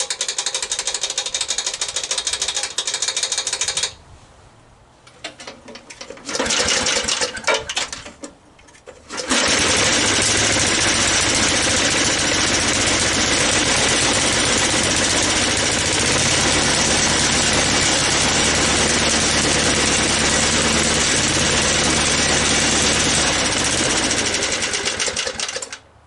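Vintage Snapper mower's small engine running in spells: about four seconds of running, a short break, a ragged sputtering stretch, then a steady run from about ten seconds in that cuts off near the end.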